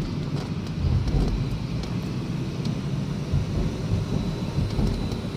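Ford Mondeo engine and road noise heard inside the cabin under acceleration: a steady, dense low rumble.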